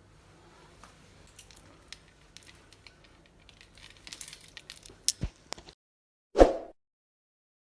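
Faint handling noises: soft rustling and light clicks of things being moved about, busier after about four seconds, with one louder thump about six and a half seconds in.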